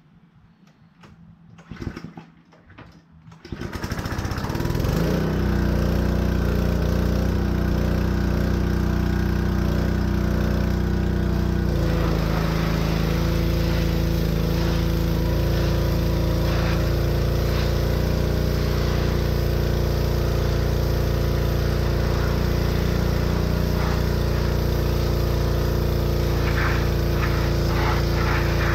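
Small gasoline engine of a pressure washer starting up about four seconds in, then running steadily under power; its note shifts about twelve seconds in.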